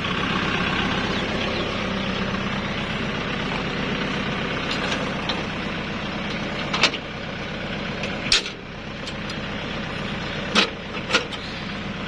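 Kubota tractor's diesel engine idling steadily, with a few sharp metallic knocks or clanks over it.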